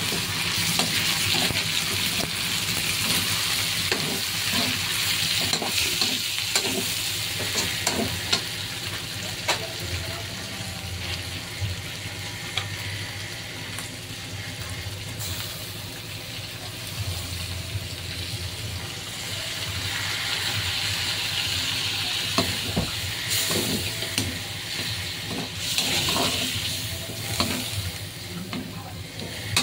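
Chicken pieces sizzling as they fry in a pan, stirred with a cooking utensil that gives scattered knocks and scrapes against the pan. The sizzle swells louder for a while about two-thirds of the way in.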